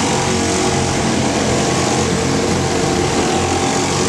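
Small engine of a bumper boat running steadily.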